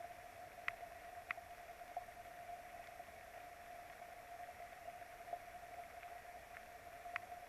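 Raindrops ticking on the nest camera: about six sharp, irregular ticks over a steady hiss and a faint constant hum.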